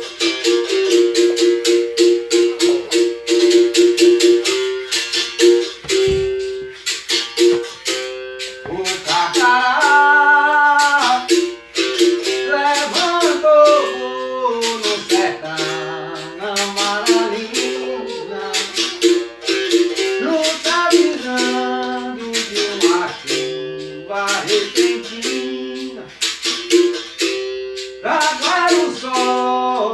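Berimbau gunga struck in a steady capoeira rhythm, alternating between its two notes, with the rattle of the caxixi on the strikes; from about ten seconds in, a voice sings a capoeira song over it.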